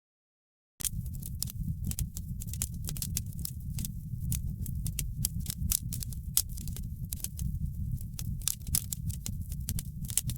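Wood fire in a fireplace crackling, with many sharp pops and snaps over a low steady rumble of the flames. The sound drops out to dead silence for the first second or so, then resumes.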